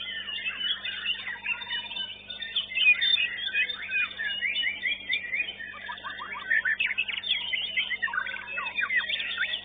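Several white-rumped shamas (murai batu) singing at once, their fast whistled phrases and chirps overlapping in a dense tangle, with a quick run of evenly repeated notes a few seconds in. A faint steady low hum lies underneath.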